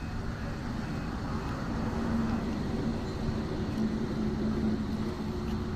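Truck driving on a highway: a steady drone of engine and road noise with a low hum, which grows slightly louder from about two seconds in.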